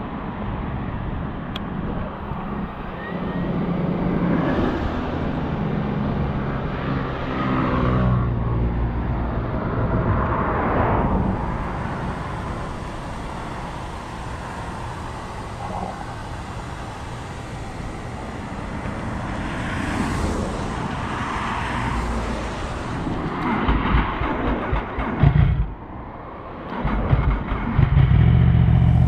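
Yamaha YZF-R1 sport bike's inline-four engine running, its pitch rising and falling. Near the end the sound drops away briefly, then the engine comes back as a loud, steady note.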